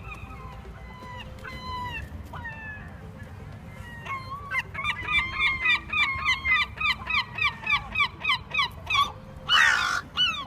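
Seagulls calling: a few drawn-out falling calls, then from about four seconds in a fast run of short calls, roughly three a second, for about five seconds, ending in a louder call near the end.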